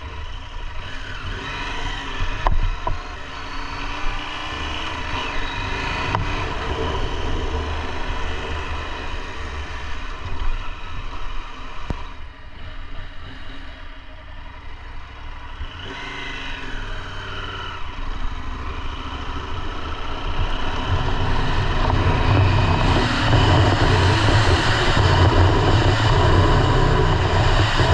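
KTM 890 Adventure R's parallel-twin engine running while riding, mixed with wind and road noise. The engine pitch rises as it accelerates about a second in and again past the middle, and everything gets louder for the last quarter.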